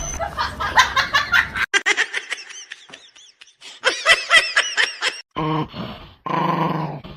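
A dog yipping and growling in a run of short, quick calls, followed by a few longer cries near the end.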